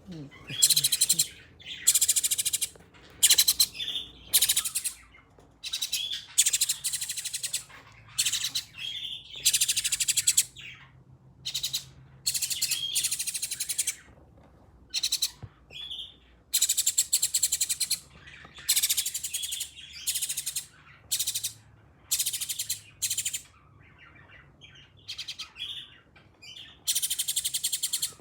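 Nestling birds giving high-pitched begging calls in about twenty separate bursts, each half a second to a second long, with short pauses between them.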